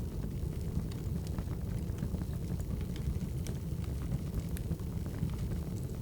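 Wood fire crackling: a steady low rumble with scattered sharp crackles and pops.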